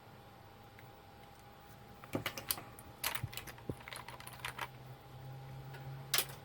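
Small plastic and metal parts of a label machine clicking and clattering as they are handled during disassembly: a quick run of light clicks about two seconds in and one more near the end, over a faint low hum that starts about three seconds in.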